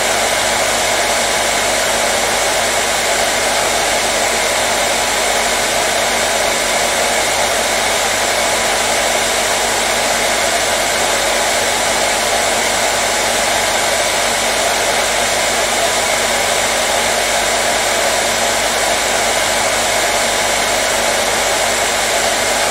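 Hairdryer running steadily with an even, unbroken rush of air and a motor hum, with no change in pitch or level.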